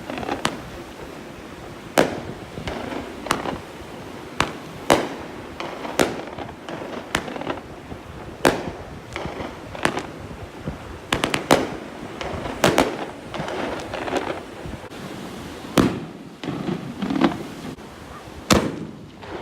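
Fireworks popping at night: a string of sharp cracks at uneven intervals, some coming in quick clusters, over a steady background wash.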